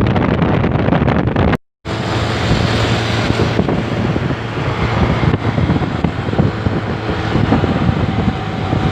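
Heavy diesel truck engine running loud through an open, straight-through exhaust, mixed with wind noise on the microphone. The sound drops out completely for a moment about one and a half seconds in, then resumes.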